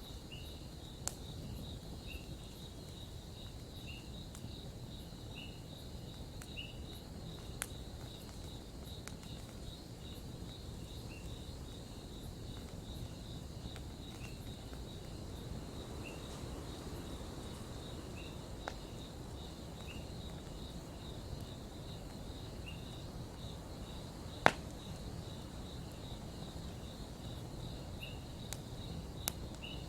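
Campfire crackling with scattered small pops and one sharp, louder pop late on, over steady cricket chirping and a short insect chirp repeating every second or two.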